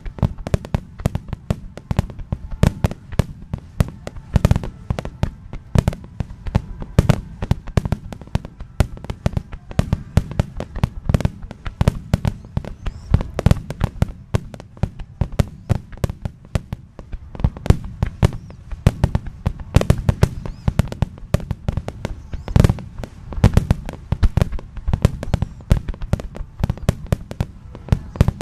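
Fireworks display in a dense, continuous barrage: sharp bangs following one another several times a second over a steady low rumble.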